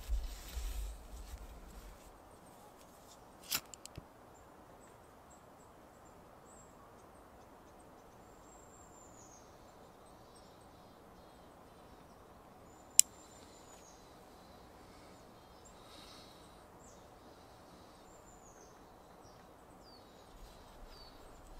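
Faint, high, thin bird calls repeating in a quiet forest, with soft handling noise at the start and two sharp clicks as cord and sticks are handled while lashing a wooden bucksaw frame.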